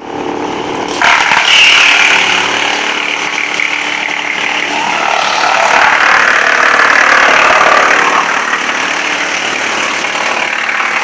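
Lida wood chipper running steadily, then a sudden louder, noisier grinding about a second in and again from about five to eight seconds, as wood is chipped.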